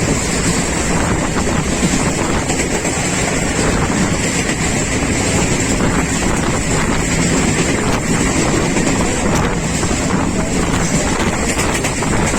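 Express passenger train running at speed, heard from on board: a steady rush of wind on the microphone over the rumble of the wheels on the rails.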